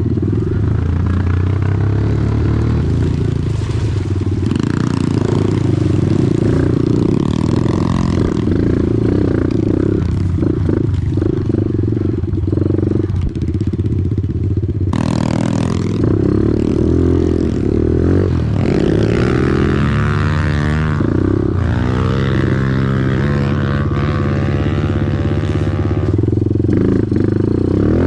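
Off-road vehicle engine running under load while riding a muddy trail, its revs rising and falling repeatedly in the second half as the throttle is worked.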